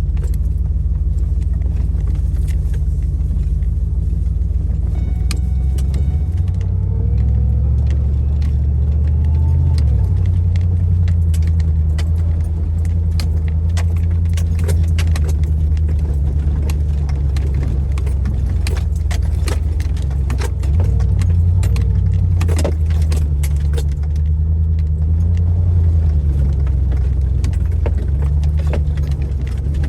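Off-road 4x4 driving slowly along a forest trail: a steady low engine and drivetrain drone with frequent rattles and knocks throughout.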